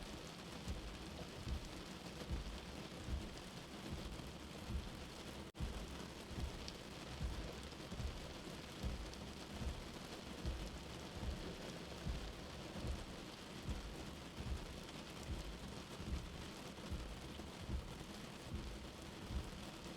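Steady rain with a soft, low heartbeat pulsing beneath it, a little more than one beat a second. The sound drops out for an instant about five and a half seconds in.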